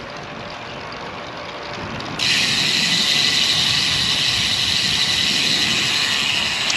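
A road bike's rear freehub buzzing as the rider coasts, coming in suddenly about two seconds in, much louder than the steady wind and road noise beneath it.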